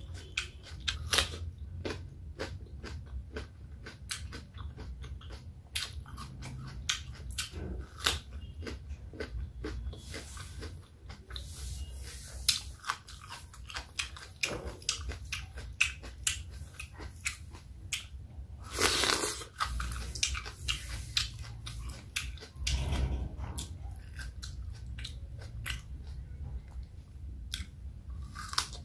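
Close-miked wet mouth sounds of chewing: many sharp, wet clicks and smacks in quick succession, with a longer, louder rushing noise about two-thirds through. Near the end she bites into a raw cucumber.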